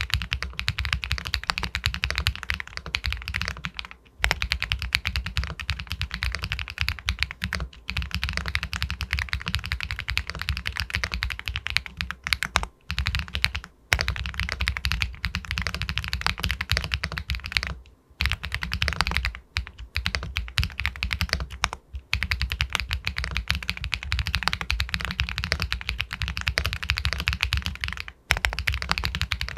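Continuous fast typing on an Epomaker Galaxy 80 Pro aluminium mechanical keyboard with White Jade linear switches, dense key clicks broken by several short pauses.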